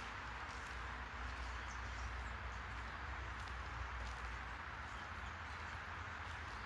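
Outdoor park ambience: a steady hum of distant city traffic, with faint footsteps on the path and a few short bird chirps.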